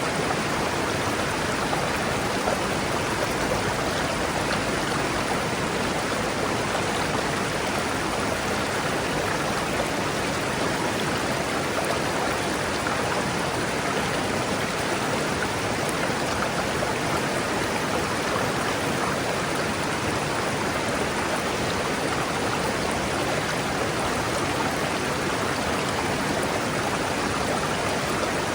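River water rushing and splashing over rocks: a steady, even roar of flowing water.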